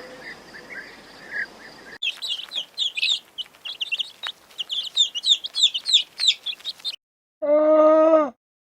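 Chickens with chicks peeping rapidly and continuously in high-pitched cheeps, after about two seconds of quieter clucking. Near the end it cuts to a single short moo from a cow.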